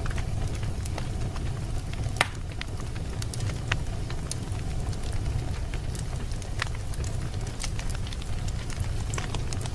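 Wood fire burning in a fireplace: irregular sharp crackles and pops over a steady low rumble, with one louder pop about two seconds in.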